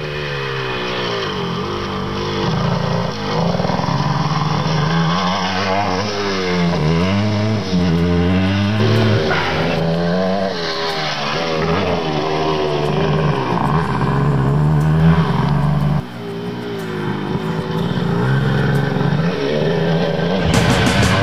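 Two-stroke 250 cc single-cylinder trail bike engine being revved up and down over and over, its pitch rising and falling with the throttle. The sound cuts off abruptly about 16 s in and resumes at once.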